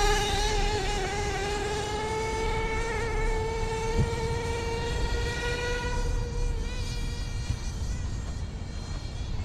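Redcat Earthquake nitro RC truck's small glow-fuel engine running at high revs, a high buzzing whine whose pitch wavers slightly, fading out after about six and a half seconds.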